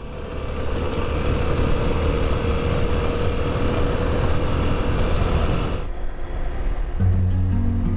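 Kawasaki KLX 300 single-cylinder dual-sport motorcycle being ridden, its engine running steadily under a rush of wind noise; the sound cuts off about six seconds in, and guitar music starts a second later.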